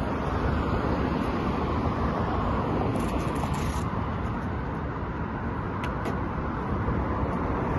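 Steady rushing road noise of a car driving, with two faint clicks about six seconds in.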